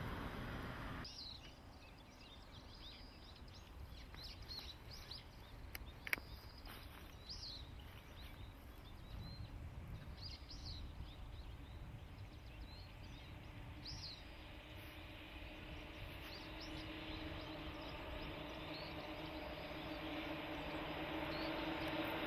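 Small birds chirping over a low steady outdoor rumble, with one sharp click a few seconds in. In the last few seconds a hum with a low steady tone grows louder.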